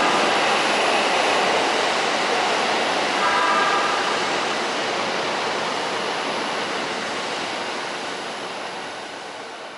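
JR East 253-1000 series electric limited express train departing, its wheel and running noise loud at first and fading steadily as it pulls away. A short tone, held for under a second, sounds about three seconds in.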